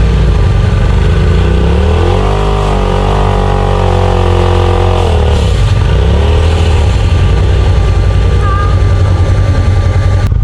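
Side-by-side UTV engine revving under load: the pitch climbs about two seconds in, holds for a few seconds, drops back, then comes up and down again in shorter revs.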